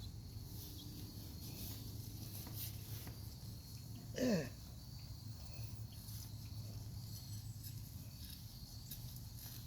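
Steady chirring of insects such as crickets, with faint scattered rustling and clicking of soil being dug by hand. A little over four seconds in, one short call sliding down in pitch is the loudest sound.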